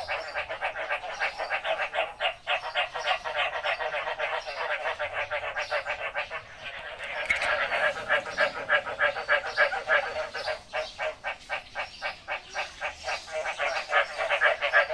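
Frogs calling in a dense chorus of rapid, overlapping pulsed calls that never let up, growing louder about halfway through.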